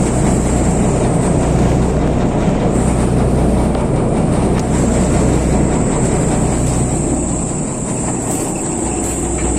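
RAM 985 combine harvester's truck-type engine and machinery running loudly up close: a steady low hum under a dense mechanical rattle, with a thin high whine. The sound eases slightly for a moment near the end.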